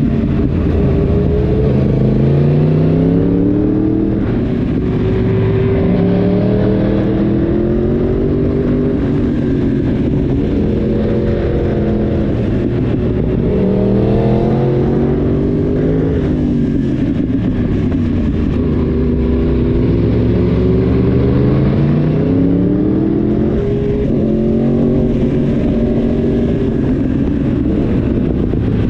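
Yamaha YZF-R1's crossplane inline-four engine heard from on board, its revs climbing and dropping over and over as the bike accelerates and backs off through a run of bends.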